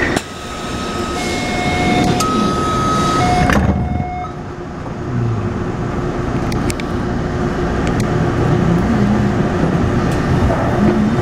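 Taipei Metro C301-type train with retrofitted traction inverters: a few steady door-warning chime tones, a thump of the doors closing about three and a half seconds in, then the train pulling away, its traction motors giving a low, wavering note under the running noise.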